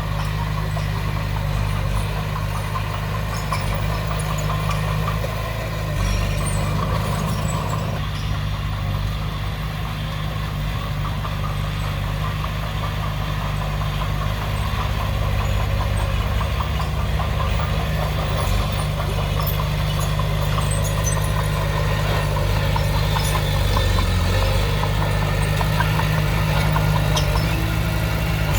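Heavy diesel earthmoving machinery running steadily, a low engine drone that shifts a little about six seconds in and grows slightly louder toward the end.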